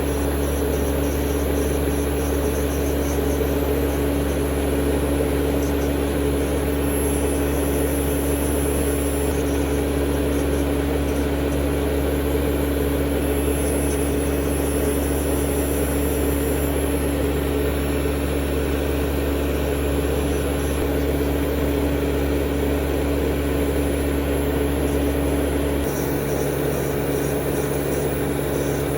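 Steady electric motor hum and whine of manicure equipment: an e-file nail drill and salon dust extractor running without a break. Near the end the low part of the hum shifts.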